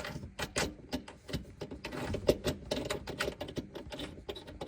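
Small metal hardware clicking and rattling in quick, irregular clicks: washers, a lock washer and a nut being handled and threaded onto an undermount sink support bracket's bolt by hand.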